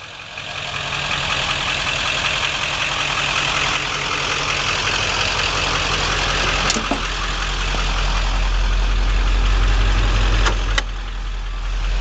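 Ford Power Stroke V8 turbodiesel engine running steadily, its low drone growing louder over the last few seconds. A few sharp clicks sound about seven seconds in and twice near the end, where the engine briefly quiets.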